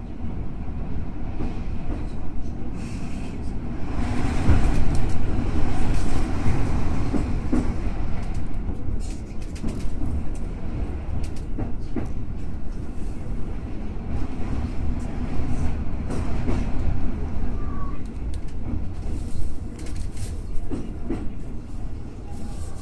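Electric commuter train running on the rails: a steady low rumble with occasional sharp clicks, getting louder for a few seconds from about four seconds in.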